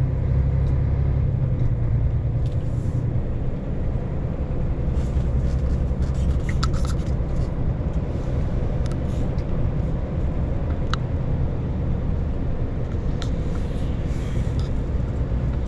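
Steady low engine and road drone heard inside a moving vehicle's cab, with a few scattered short clicks or rattles.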